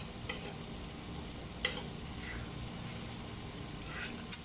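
Beef and broccoli stir-fry sizzling steadily in a pan, broken by a few short sharp clicks.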